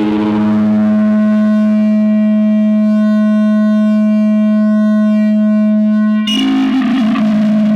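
No-input mixer feedback drone, shaped through an effect pedal: a loud, steady electronic tone with a stack of overtones. About six seconds in it breaks into a rougher, noisier, wavering texture.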